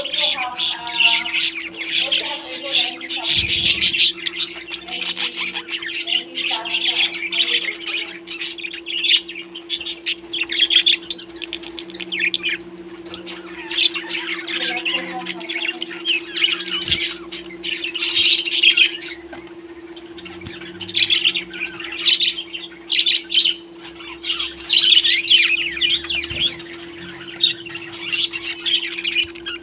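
Pet parrots chattering, a dense continuous stream of chirps and squawks.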